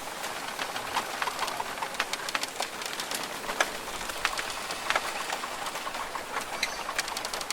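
Rainforest ambience: a steady patter of rain drips ticking on foliage, with scattered short bird calls, among them a pigeon- or dove-like coo.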